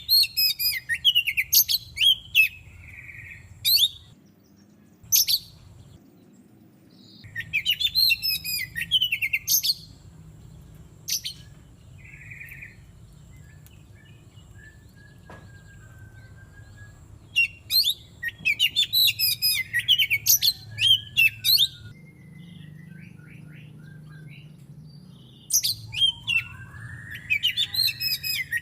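Oriental magpie-robin (kacer) singing in bouts of a few seconds each: quick runs of varied, high whistled and chattering notes, with pauses of several seconds between bouts.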